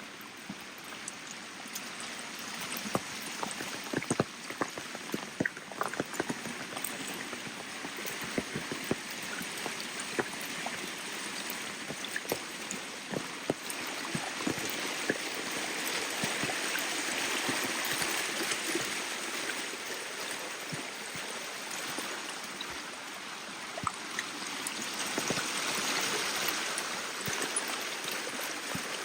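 Rain falling, a steady hiss studded with many sharp drop taps, the wash swelling twice, about halfway through and again near the end.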